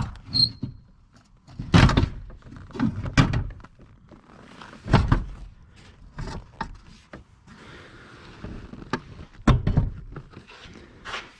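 Van passenger seat being shifted and worked down onto its threaded floor studs: about four heavy thuds and knocks, with lighter clicks and scrapes between them.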